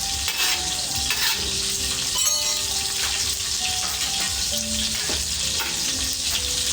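Food sizzling in a pan over a wood fire that the cook finds too hot, with a short metallic clink about two seconds in.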